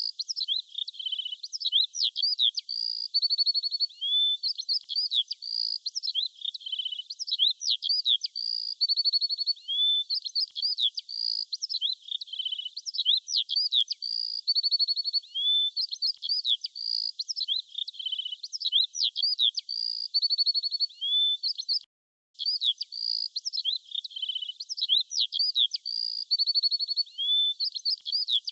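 Songbird chirping and trilling in quick, varied high phrases. The same sequence of phrases comes round again about every five and a half seconds, and the sound cuts out briefly a little over twenty seconds in.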